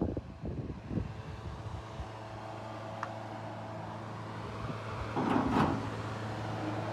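A steady low mechanical hum, with a few irregular knocks in the first second and a louder, noisy rustle about five seconds in.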